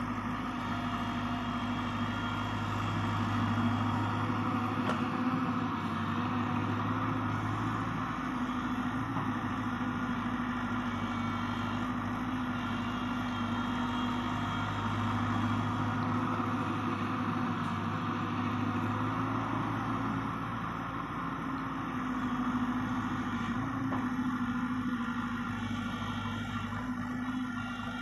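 Diesel engine of a JCB 3DX ecoXpert backhoe loader running steadily under working load, with a constant low drone and mechanical noise.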